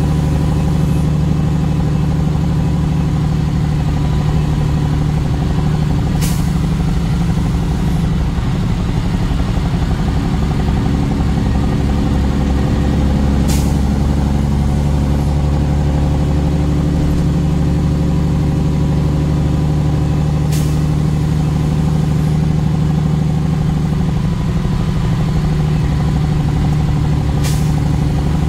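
Truck engine running steadily while driving, with a short, sharp hiss about every seven seconds.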